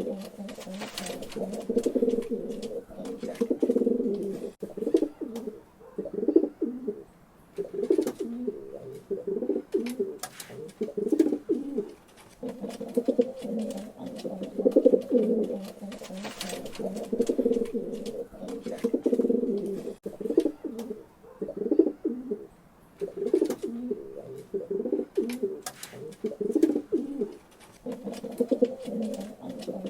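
Pigeons cooing in repeated low phrases of a second or two each, with short pauses between, and a few sharp clicks scattered through.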